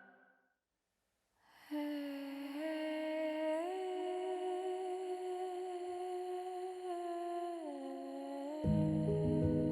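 A voice humming long held notes as part of a film score, stepping up twice and then back down. It begins after a second or so of silence, and a louder, deeper cluster of low notes joins near the end.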